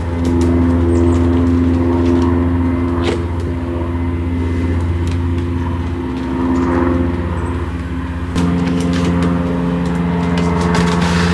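Hyundai Casper light car's engine running steadily while driving, its note stepping to a new pitch about eight seconds in, with a few light clicks and knocks.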